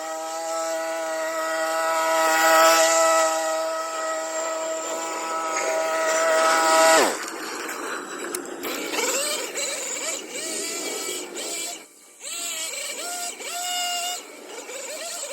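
Hedge trimmer's motor running at a steady high pitch, then winding down sharply about halfway through as it is switched off. Quieter, irregular wavering sounds follow.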